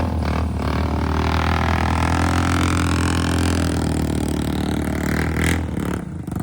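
ATV engine revving hard under load in deep mud, its pitch sinking slightly late on. A short sharp noise about five and a half seconds in, after which the engine falls away to a much lower level.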